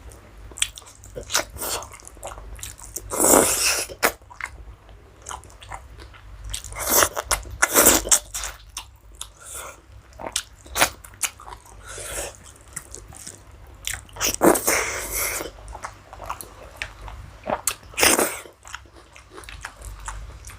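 Close-miked chewing and wet mouth smacks of a person eating rice with curry, with irregular clicks and louder bursts every few seconds.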